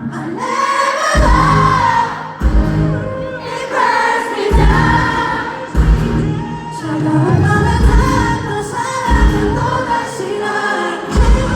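Live concert music: a pop-rock band playing and a sung melody, with heavy bass and drum hits every second or two.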